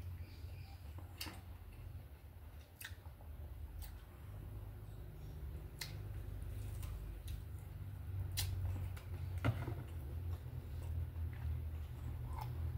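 A person eating close to the microphone: biting into a piece of breaded milanesa and chewing. A few sharp clicks are scattered through it over a steady low rumble.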